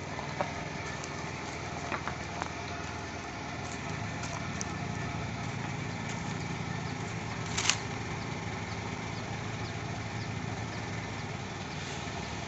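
Land Rover Series engine idling with a steady low rumble that grows slightly fuller about four seconds in. A single sharp click stands out about two-thirds of the way through.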